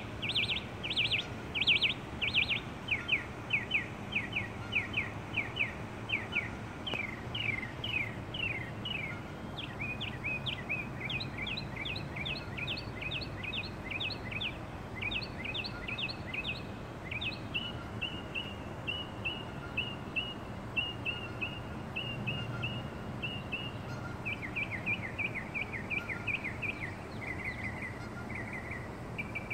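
A songbird singing one long, unbroken song of quick, sharp downward-sweeping notes. The notes are repeated in runs, and the phrase type changes every few seconds. A steady low background hum runs underneath.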